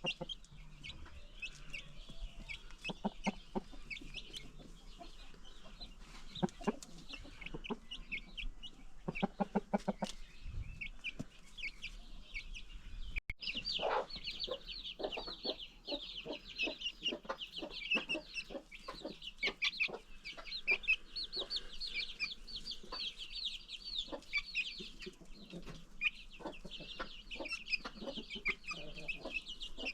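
A flock of free-range chickens: hens clucking, with many baby chicks peeping in short high chirps. There is a brief break about a third of the way in, after which the chick peeping grows denser.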